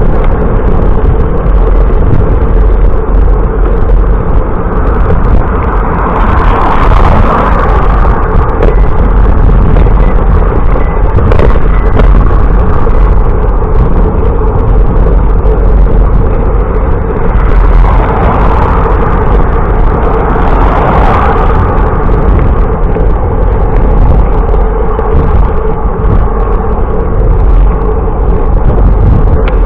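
Loud, steady wind rumble buffeting the microphone of a camera carried on a moving bicycle, with a constant hum underneath. The noise swells louder twice, about six seconds in and again around eighteen to twenty-one seconds in.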